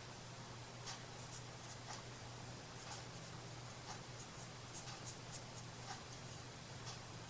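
Faint, irregular scratching strokes of hand work on a craft piece, over a steady low electrical hum.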